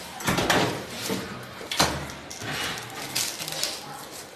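Handling noises from unpacking a microwave oven: a series of short knocks, scrapes and rustles, the sharpest about two seconds in.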